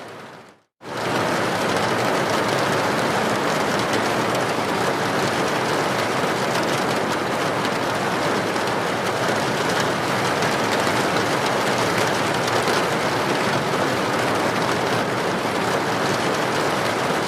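Steady rain, an even unbroken hiss. It fades out to silence right at the start and comes back in a little under a second later.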